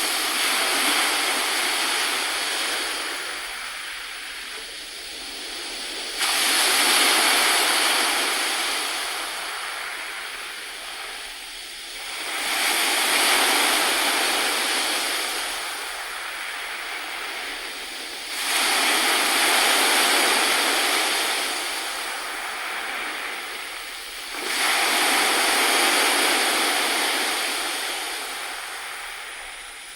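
Sea waves washing onto a shore: a hissing surge comes in sharply and slowly drains away, about every six seconds.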